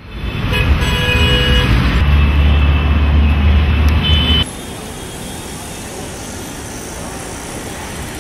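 Motor vehicle running with a loud, steady low hum. About four and a half seconds in it cuts abruptly to a quieter, even rushing noise like traffic.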